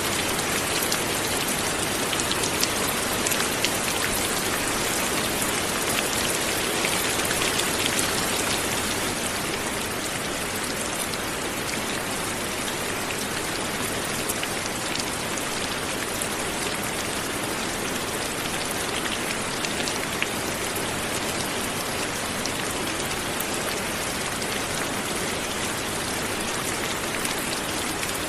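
Steady light rain falling on surfaces, an even patter of many drops with occasional sharper individual drop ticks.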